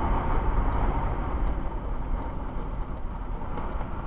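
Steady low rumble of a car heard from inside its cabin, with no sudden events.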